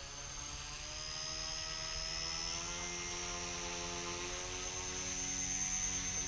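Small remote-control helicopter's electric motor and rotor whining in flight. The pitch rises over the first two to three seconds as the throttle comes up, then holds steady.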